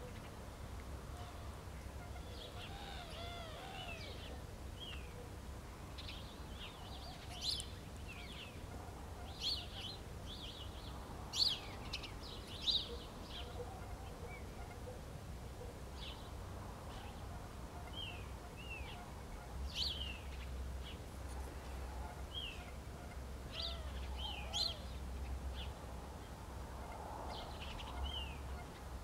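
Small birds calling with short, high chirps and quick falling notes, scattered through the whole stretch, over a low steady rumble.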